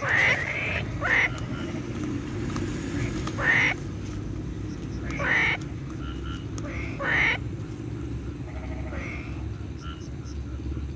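Rice-field frogs croaking: five short, loud croaks every one to two seconds, then fainter calls, over a steady low rumble.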